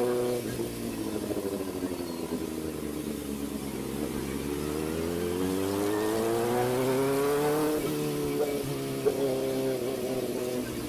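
Kawasaki ZX-4RR's 399 cc inline-four through an SC Project exhaust: revs fall away at first, then climb steadily for a few seconds before dropping sharply at a gear change, with a few brief blips after.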